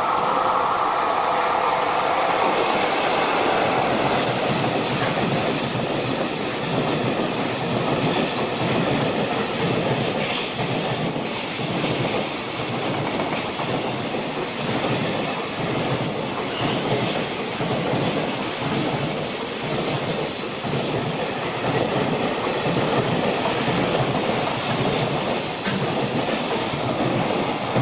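A JR Freight electric-hauled container train passing close by at speed. A long string of container wagons rattles past, wheels clacking in a steady rhythm over the rail joints, with a few faint high-pitched wheel squeals.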